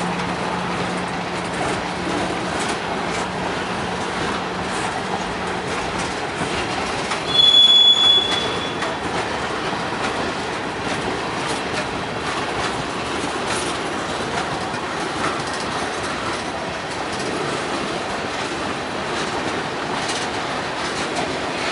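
Freight train boxcars and tank cars rolling past close by, a steady rumble with the clatter of wheels over rail joints. About seven seconds in comes a brief, high-pitched metal-on-metal squeal, the loudest sound in the passage.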